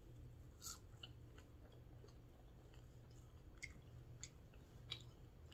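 Quiet chewing of someone eating chicken wings, with a few faint sharp clicks: one about a second in and several about four to five seconds in. A low steady hum runs underneath.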